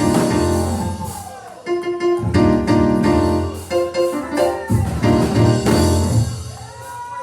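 Church keyboard or organ music playing in loud, full chords that change about once a second, with a bass line underneath, easing off near the end.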